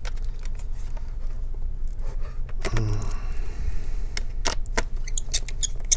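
Light clicks and metallic clinks of small screws, a screwdriver and plastic parts being handled during laptop disassembly, over a steady low hum.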